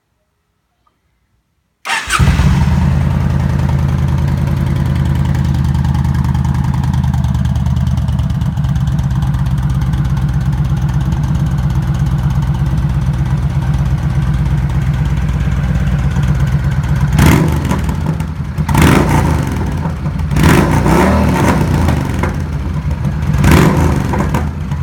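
Yamaha V Star 1300 V-twin engine running through an aftermarket 3-inch baffled muffler on wrapped original pipes. It comes in suddenly about two seconds in and idles with a steady low pulse, then gets four or five quick throttle blips in the last third.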